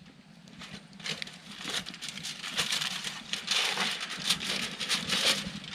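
Aluminium foil crinkling as it is peeled back off a covered skillet: a run of irregular crackles that starts about a second in.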